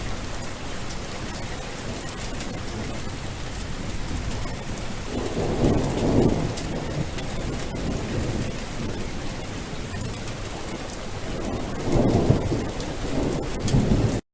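Steady rain, with two deep rolls of thunder, one about five seconds in and another near the end.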